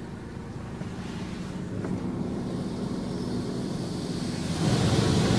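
Automatic car wash machinery heard from inside the car: a steady low hum with a hiss of water spray on the body that grows louder, stepping up about four and a half seconds in as the next pass reaches the car.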